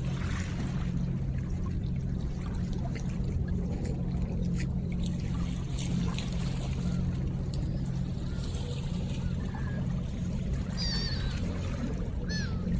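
River water running steadily with a low rumble and scattered small splashes and drips. A few short bird calls, likely from the ducks, come near the end.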